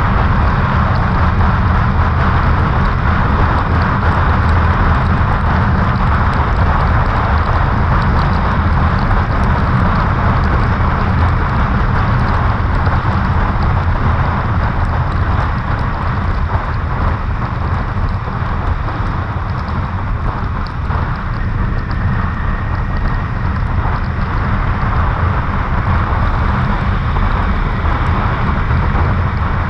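Kawasaki Ninja 400 parallel-twin engine running at cruising speed, mixed with steady wind rush over the rider's microphone. The sound eases off slightly about halfway through.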